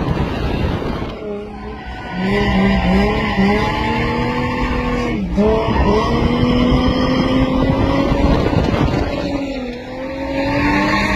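Drift car's engine held at high revs, with a run of quick throttle pulses about two to three seconds in and short dips in revs about five and ten seconds in, as the tyres skid.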